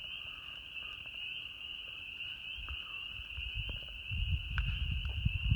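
Spring frogs calling in a steady, high-pitched chorus, with a few sharp crackles from a campfire. A low rumbling noise builds in the second half.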